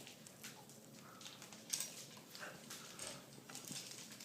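Parrot biting into corn kernels on the cob: faint, irregular crunches and clicks of the beak, a few each second.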